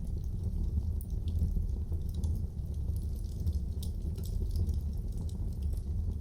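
Wood fire burning in a fireplace: a steady low rumble of flames with scattered faint crackles and pops.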